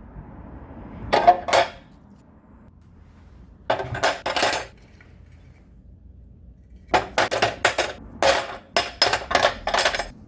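Small metal parts clinking and rattling against metal as they are handled, in three clusters: a brief one about a second in, another around four seconds, and a longer run of quick clinks near the end.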